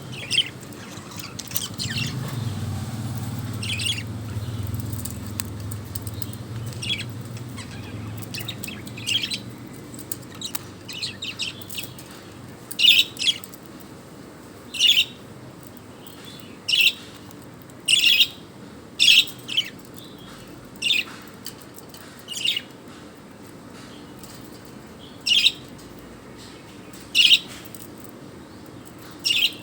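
A pet bird giving short, sharp calls, one every one to two seconds through the second half, about a dozen in all. A low rumble runs under the first several seconds.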